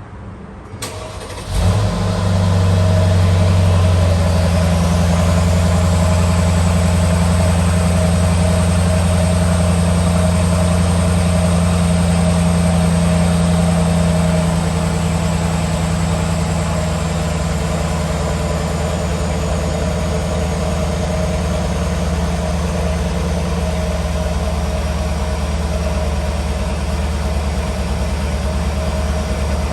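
A 2018 Mercedes GLS550's twin-turbo V8 is cold-started: the starter cranks briefly and the engine catches about a second and a half in. It settles into a steady, raised cold idle, which eases down a little about halfway through. A thin high whine rises over the first few seconds, then slowly falls.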